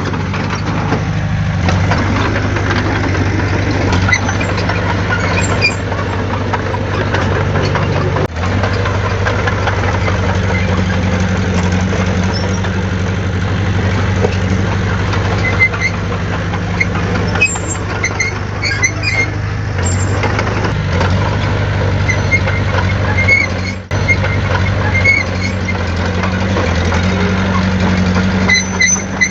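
Heavy diesel engine of earthmoving machinery running steadily with a deep, even hum, dropping out briefly twice, with a few short high squeaks over it near the end.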